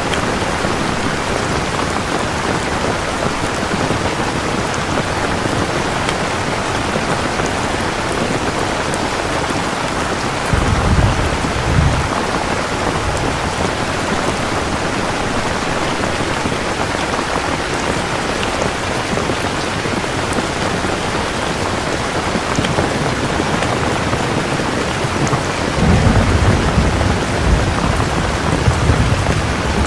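Steady rain with two low rumbles of thunder, a short one about a third of the way in and a longer one near the end.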